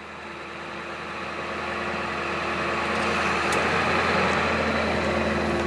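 Ford F550 truck engine running with its PTO-driven hydraulic pump working while an outrigger is lowered. The steady mechanical drone and hiss grow louder over the first few seconds, then hold steady.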